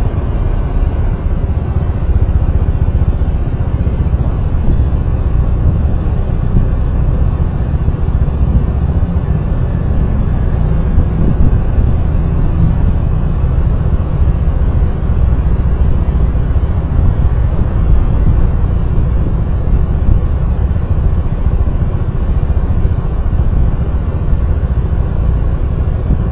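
Steady low rumble of a moving road vehicle, recorded on board: engine, tyre and wind noise with no distinct events.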